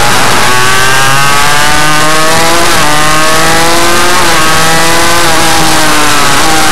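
Suzuki RM85 minimotard's two-stroke single revving hard under way. Its pitch climbs, drops sharply and climbs again about three times, as with upshifts through the gears. The sound is very loud throughout.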